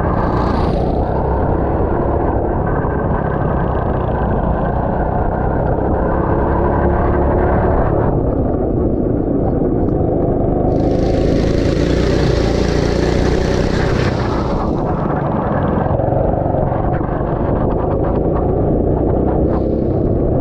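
Go-kart engine running and rising and falling in pitch with the throttle, heard onboard through a helmet camera. A few seconds of loud hissing noise rise over it in the middle.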